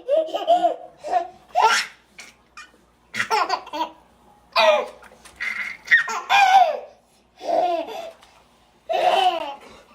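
A baby laughing in a string of high-pitched peals, about eight of them, many sliding down in pitch.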